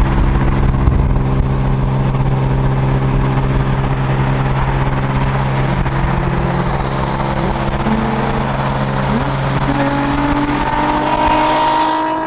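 Car engine running at a steady speed, deep and loud, its pitch shifting and rising a little over the last few seconds.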